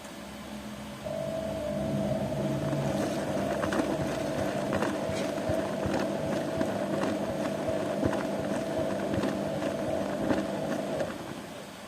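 Zanussi washing machine's motor running for about ten seconds, a steady hum with a higher whine, with irregular clicks and knocks over it, then cutting off near the end.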